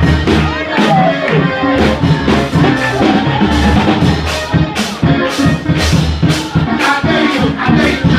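Live church band music with a driving drum beat, heavy bass and keyboard, played loud and continuous.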